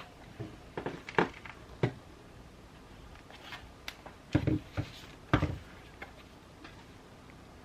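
Handling of journaling supplies on a desk: a few short knocks and rustles, the loudest cluster about halfway through, over a faint steady hiss of background rain.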